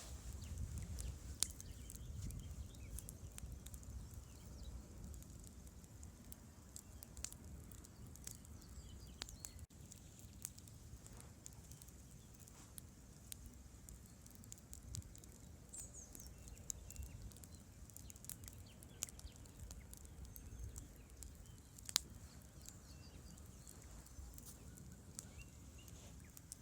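Wood campfire crackling, with irregular sharp pops and snaps, the loudest about a second and a half in and again near the end, over a faint steady low rush.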